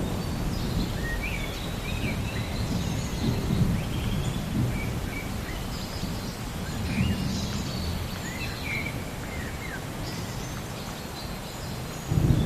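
Low rumble of thunder that swells and fades, with birds chirping short calls over it throughout; a louder roll of thunder starts just before the end.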